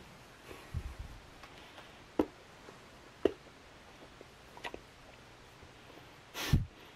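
A man chewing a piece of 1863 Civil War hardtack softened in water, rubbery like an eraser to bite, with a few sharp wet mouth clicks. Near the end comes a short splash as the piece drops back into the water in a metal canteen cup.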